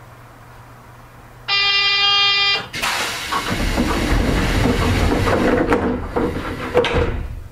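Seibu 8500 series Leoliner train: a buzzer sounds for about a second, then several seconds of loud rushing, rattling noise end in a sharp knock and die away.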